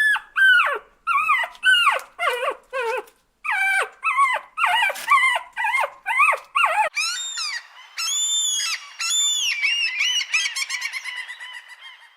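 Dog yelping and whining: a quick series of short, high yelps, then longer drawn-out whines that break into a fast, quavering run of notes and fade away.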